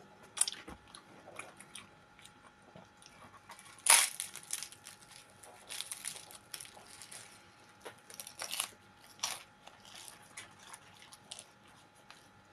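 Close-up eating sounds: a person biting into and chewing crisp baked flatbread. One loud crunchy bite comes about four seconds in, with smaller crunches scattered through the rest.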